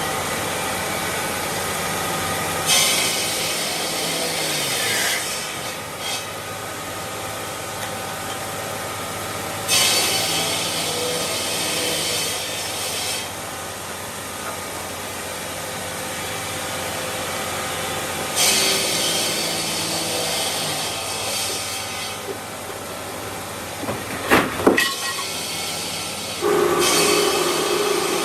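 Stone-processing machinery in a marble factory running with a steady hum, broken by four spells of loud hissing a few seconds long. There is a brief falling whine about five seconds in and a few sharp knocks near the end.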